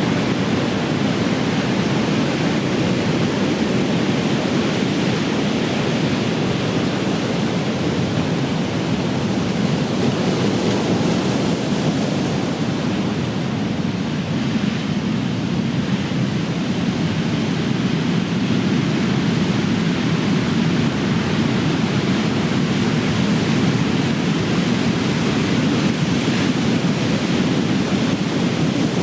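Ocean waves breaking on the shore: a continuous, deep rush of surf that swells and eases slightly, with no single sharp crash standing out.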